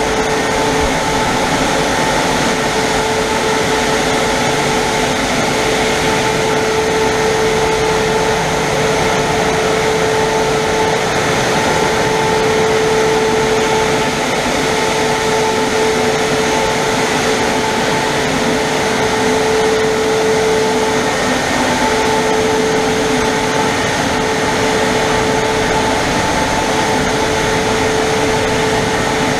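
Christ Varius automatic gantry car wash running: a steady rushing noise with a constant whine, without a break.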